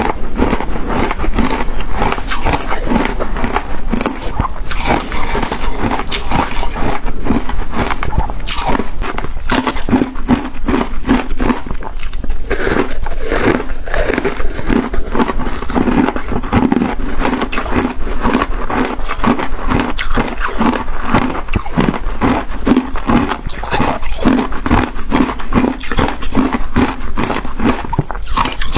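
Close-miked chewing of crunchy shaved ice with matcha: dense crisp crunching and crackling as the ice shards break between the teeth, in a steady chewing rhythm.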